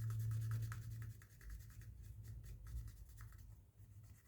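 Faint rubbing, scratching and small clicks of hands handling a phone and its parts during a repair, over a low hum that is strongest in the first second.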